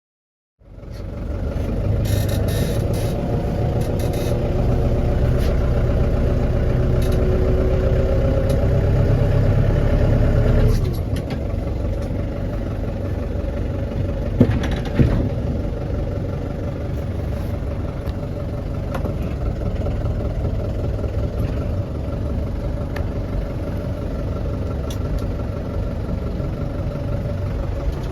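Lovol 50-horsepower tractor's diesel engine running at work, cutting in abruptly about half a second in. It is louder for the first ten seconds or so, then drops to a steadier, lower running level, with two sharp knocks close together around the middle.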